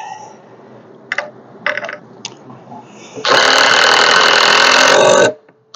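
A few light clicks of handling, then a power drill driving a screw into wood for about two seconds, a steady motor whine that stops abruptly.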